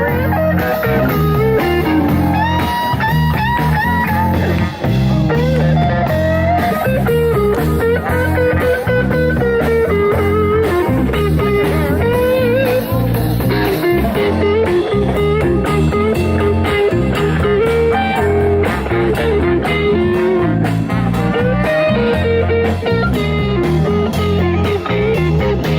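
Live blues band playing, with an electric guitar bending and sustaining notes over bass and drums.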